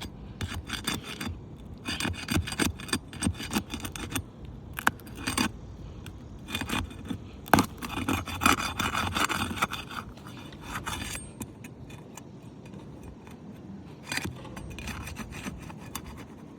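Asphalt roof shingle being pried loose from its seal with a tool: irregular scraping, rubbing and crackling strokes, busiest in the first two thirds, as the sealed tab is worked free.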